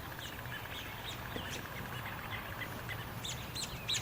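Songbirds giving short, repeated chirping calls, scattered at first and coming thicker near the end, the agitated calls of birds upset by cats hunting one of them.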